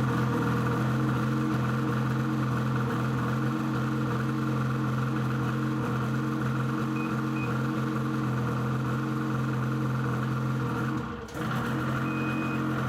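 Snowmobile's 600 E-TEC two-stroke twin idling steadily, with a few short high beeps. The sound briefly drops out about eleven seconds in.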